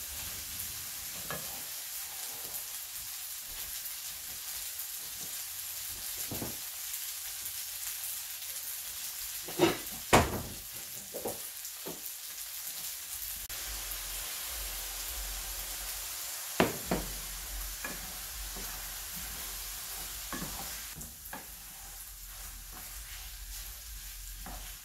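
Chicken, mushroom and fettuccine stir-fry sizzling in hot olive oil in a pan, a steady hiss, with a few sharp utensil knocks against the pan about ten seconds in and again a few seconds later.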